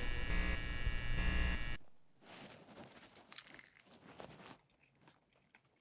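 Theme music playing, then cutting off suddenly about two seconds in, followed by faint crackly mouth and crunching sounds of a man biting into and chewing a sauced chicken wing.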